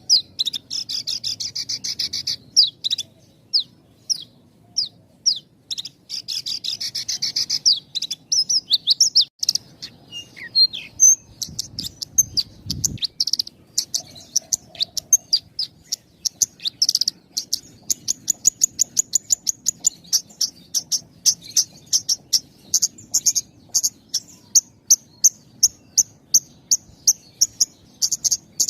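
Javan bush lark (branjangan) singing in quick runs of short high chirps. There are dense trilled passages in the first several seconds, and after that steady repeated notes at about three or four a second. A brief low rumble comes about twelve seconds in.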